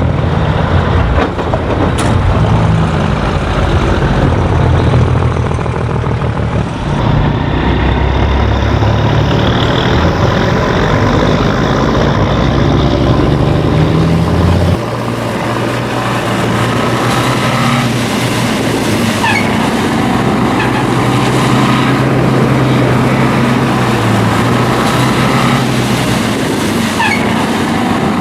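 A vehicle engine, most likely a tractor's, running steadily with a low drone; about halfway through its pitch and low end shift.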